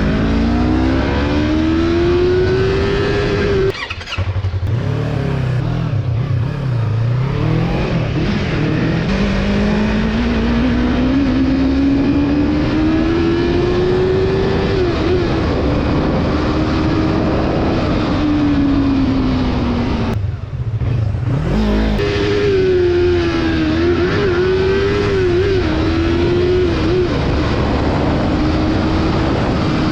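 Yamaha MT-03 parallel-twin motorcycle engine under way, revs climbing under throttle and dropping briefly at gear changes about four seconds in and again around twenty seconds. Between the changes the revs rise steadily, fall off as the throttle eases, then hold with small wavers, over a steady rush of wind and road noise.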